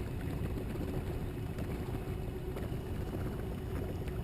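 Torqeedo Ultralight electric kayak motor running with a steady, thin whine, over a low rumble of water and wind on the hull.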